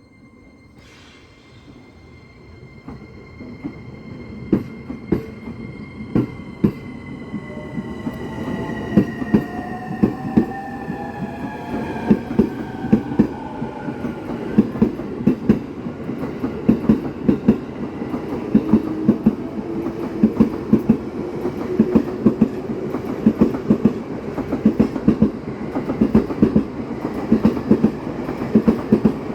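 Electric commuter train pulling away: the motors' electronic whine glides in pitch as it accelerates through the first half, then the wheels clack over rail joints in a quickening rhythm that grows louder.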